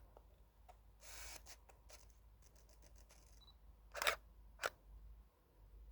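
Faint handling noise and a short rustle, then two sharp clicks about half a second apart: a Canon EOS 1200D DSLR's shutter being fired.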